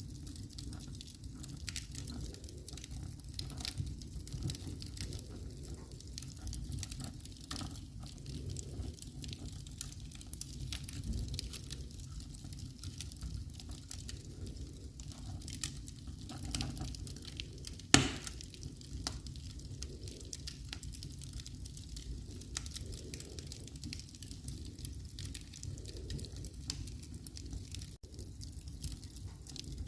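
Wood fire in a fireplace crackling, with scattered small pops and snaps over a low steady rumble, and one much louder sharp snap about eighteen seconds in.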